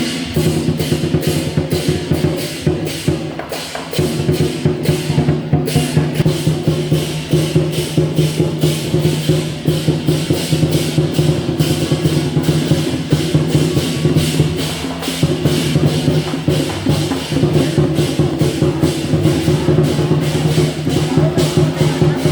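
Loud percussion music: evenly paced drum and clapper strikes about four a second over sustained pitched tones, typical of temple procession music.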